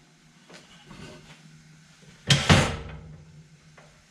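Wheel and tyre being handled during hand tyre removal: a few faint knocks, then one loud, short scraping clatter with two quick hits about two seconds in.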